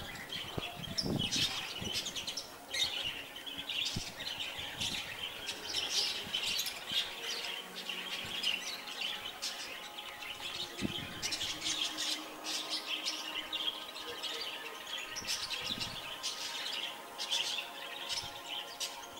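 Small birds chirping busily, many short high calls overlapping without a break.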